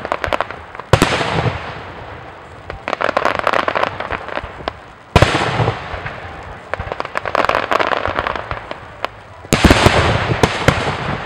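Fireworks display: three sharp booms of aerial shells bursting, about four seconds apart, each trailing off in an echo, with stretches of dense crackling between them.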